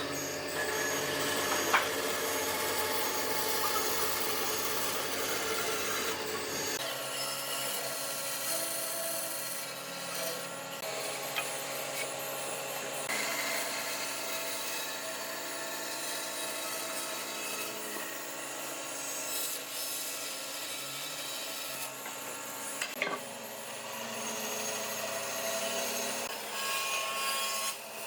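Tools working wood, with continuous scraping and rubbing like sanding, rasping or sawing. About seven seconds in the low rumble drops away and the scraping goes on, thinner.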